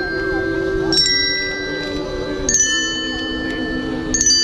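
Bell-like chimes struck three times, about a second and a half apart, each note ringing on over a held lower tone, as instrumental music.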